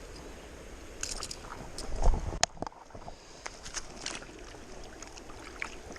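Steady river water running, with scattered short clicks and knocks and a louder thump about two seconds in.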